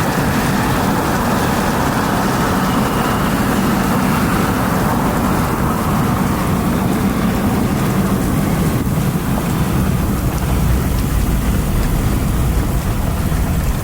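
Heavy rain and strong wind in a severe thunderstorm: a loud, steady rush.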